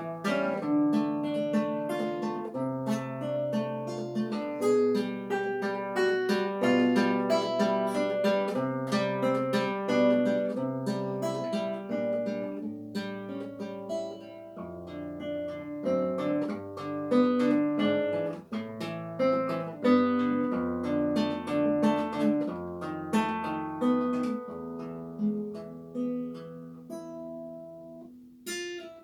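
Classical guitar played solo: a plucked melody over bass notes, continuous, with a short break just before the next phrase begins near the end.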